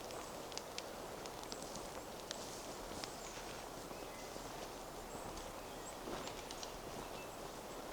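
Footsteps walking along a forest path in a steady crunching shuffle, with a few short high bird chirps in the background.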